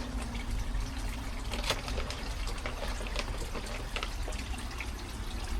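Koi pond water trickling steadily, with small irregular splashes at the surface.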